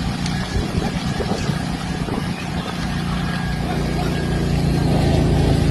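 An engine running steadily under a rushing noise, growing louder in the second half.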